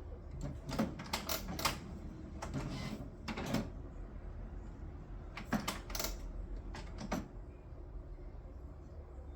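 HP Smart Tank 581 inkjet printer's mechanism making an abnormal noise: irregular clacks and knocks in several short clusters. It is the strange noise that the owner is showing as a fault.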